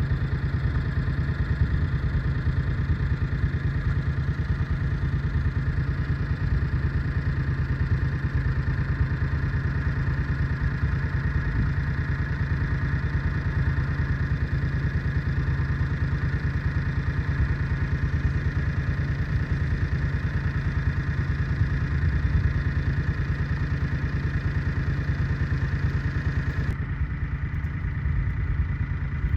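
Fendt tractor's diesel engine running steadily at an even speed.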